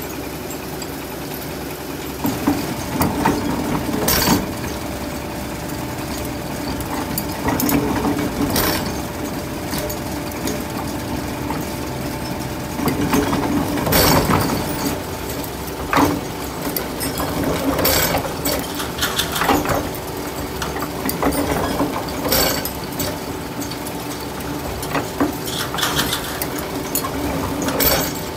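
Forging-shop machinery running with a steady hum, with sharp metal strikes and clanks every few seconds, irregularly spaced.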